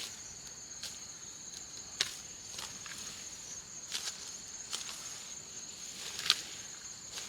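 Steady high-pitched insect trilling, like crickets, with a few sharp ticks or taps every second or two.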